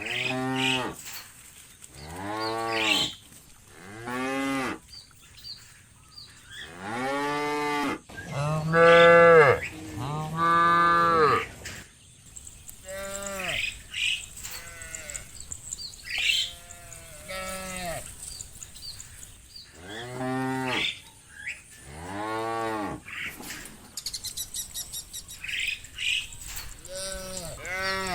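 Cattle mooing: about a dozen separate moos at intervals, each about a second long, swelling up and falling away in pitch. Some calls are deep and others higher.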